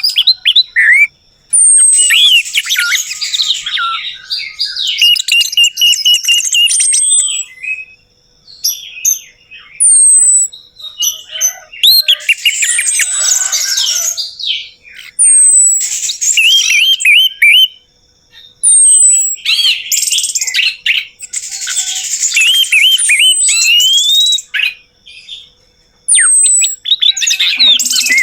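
Orange-headed thrush singing: loud, varied phrases of rapid warbling and short falling whistles, each two to four seconds long, broken by brief pauses.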